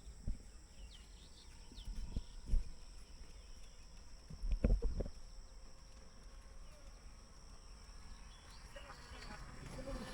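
Rural outdoor ambience: a few dull thumps at uneven intervals, the loudest cluster about halfway through, over a steady high hiss with a few faint bird chirps.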